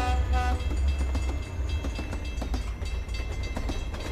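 A train horn sounding, cutting off about half a second in, then a passing train rumbling with repeated wheel clacks.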